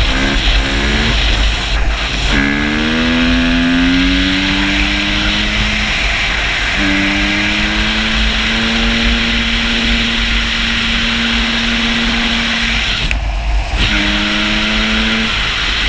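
Honda CRF250R dirt bike's single-cylinder four-stroke engine running hard at high revs, its pitch climbing after a shift a couple of seconds in, holding a steady high note for several seconds, dropping off about thirteen seconds in and then pulling up again. Heavy wind rumble on the microphone underneath.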